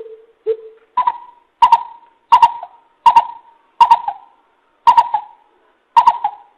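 Coucal (bìm bịp) calling: a series of about nine deep, hollow hoots. The first three are lower and the rest a step higher, spaced roughly half a second to a second apart and slowing slightly toward the end.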